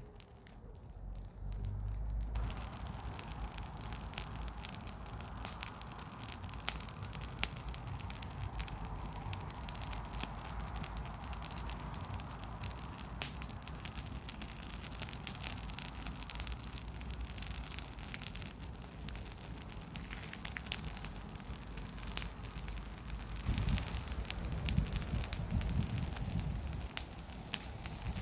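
Garden bonfire of wood and leaves burning, crackling with many small pops over a steady hiss. The crackling comes up about two seconds in, and a low rumble swells near the end.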